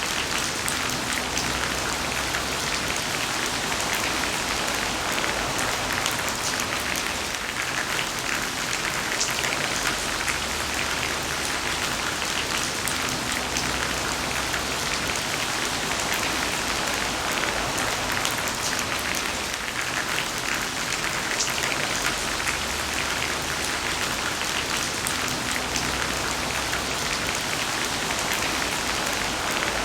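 Heavy rain falling steadily: a dense, even hiss of countless drops with fine individual impacts.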